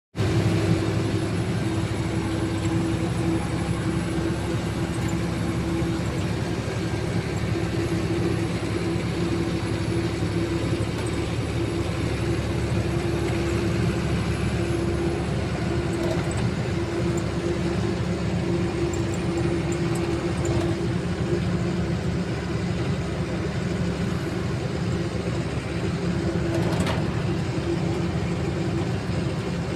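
Truck engine running steadily: a constant, even drone with a steady hum that holds the same pitch throughout, and a single brief click near the end.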